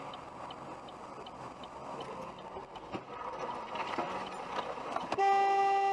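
Steady road and engine noise from a moving car with a faint regular ticking, then about five seconds in a car horn sounds one steady blast of about a second, the loudest sound here.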